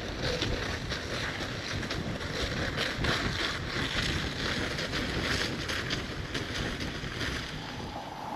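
Strong wind buffeting the microphone, a steady low rumble with gusty rustling on top.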